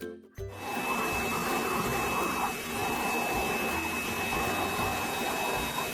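A steady motor-driven rush of air with a constant high whine over it, starting about half a second in, like a household appliance such as a vacuum cleaner running.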